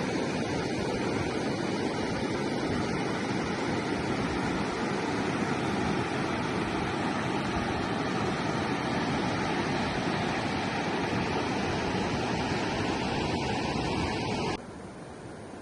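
Rushing river water, a steady loud roar of flowing water. About a second before the end it drops suddenly to a much quieter hiss.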